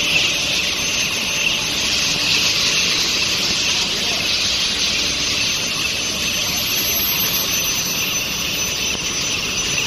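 Long-bar induction hardening and tempering line running: a loud steady hiss with a faint high whine held at one pitch.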